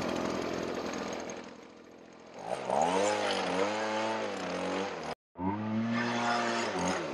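Small gasoline engine running, then revved up and down several times from about two and a half seconds in. The sound cuts out for an instant just past five seconds, then the revving goes on.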